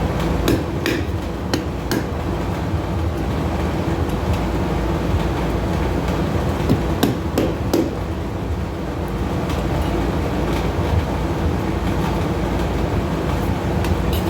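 Light hammer taps on a heated 2 mm steel plate leaf as its tip is curled over: a few in the first two seconds and a few more about seven seconds in. Under them runs the steady roar of the lit forge.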